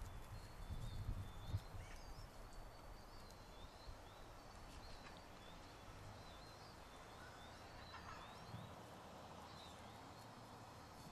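Faint birdsong: small birds chirping in short, quick, high phrases again and again, with a few soft low bumps and rustles in the first two seconds.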